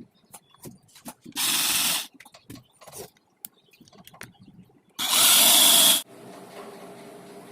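A handheld power tool run in two short bursts, the second longer and louder, with clicks and knocks of parts being handled between them. A steady, quieter motor hum follows near the end.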